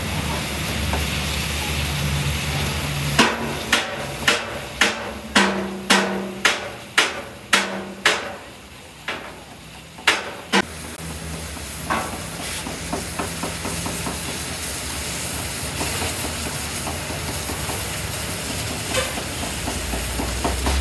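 Hammer blows on metal: a run of about ten ringing strikes, roughly two a second, then two more, over a steady low hum.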